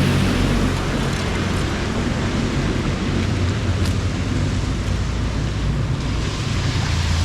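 Steady heavy rain and running floodwater, with wind rumbling on the microphone.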